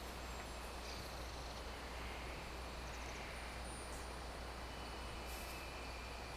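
Faint steady background noise with a low hum underneath and a few faint, brief high-pitched tones.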